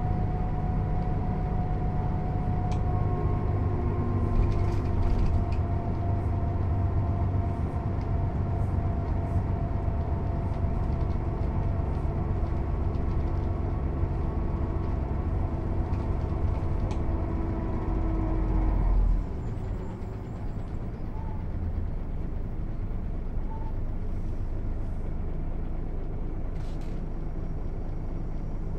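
Mercedes-Benz O 407 bus's six-cylinder diesel engine running under load with a steady drone. About two-thirds of the way through, the engine sound drops suddenly and runs on at a lower, quieter note.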